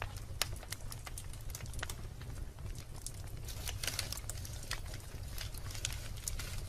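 Wood fire of burning logs crackling: irregular sharp pops and snaps over a low steady rumble of the flames, with a denser cluster of crackles about four seconds in.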